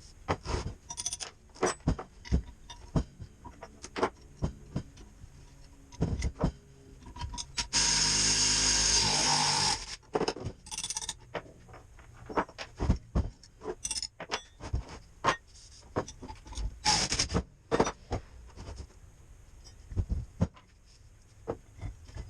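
Tools being handled and set down in a string of sharp clicks and knocks, with one loud, even burst of noise lasting about two seconds about eight seconds in.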